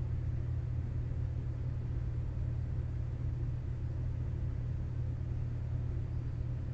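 Steady low background hum or rumble, unchanging throughout.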